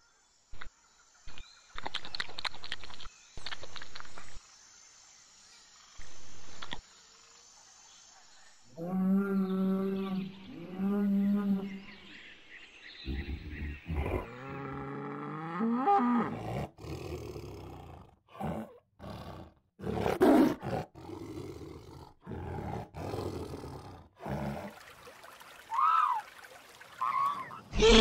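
Cattle mooing: a series of long, low calls from about nine seconds in, some rising and falling in pitch, with sharp knocks between them. Before that, a thin steady high tone and scattered clicks.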